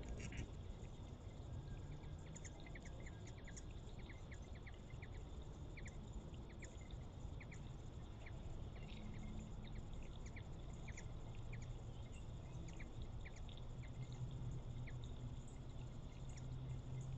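Faint outdoor ambience: many short, high chirps scattered irregularly over a low, steady rumble.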